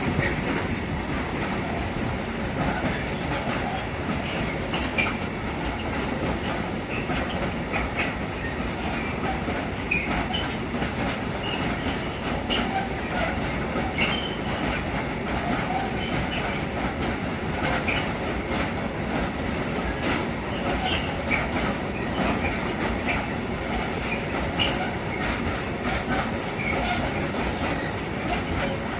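Freight train wagons rolling past, wheels clattering steadily over rail joints, with short, scattered wheel squeals.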